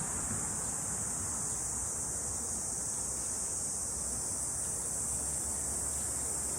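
A summer cicada chorus droning steadily with a high, even hiss-like buzz, over a low rumble.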